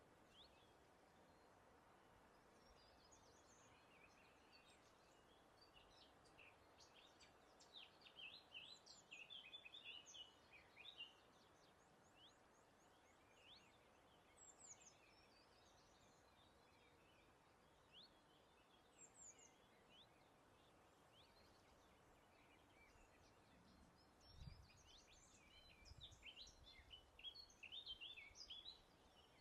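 Faint wild birdsong: scattered high chirps and quick trills from several birds over a soft steady hiss of breeze, busiest about eight seconds in and again near the end, with a couple of soft low thumps shortly before the end.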